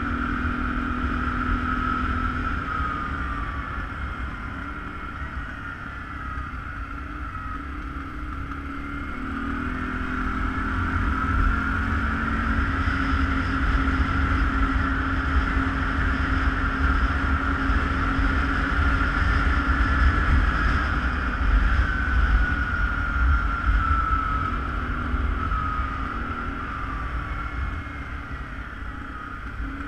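ATV engine running on the move, its pitch rising and falling with the throttle over a low rumble, louder through the middle stretch.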